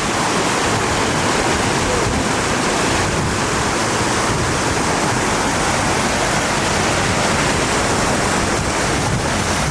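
Floodwater rushing steadily, a loud continuous wash of noise without a break.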